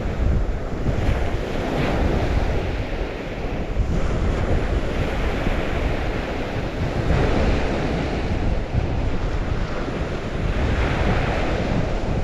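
Water washing steadily, swelling and easing every few seconds, with wind buffeting the microphone as a low rumble.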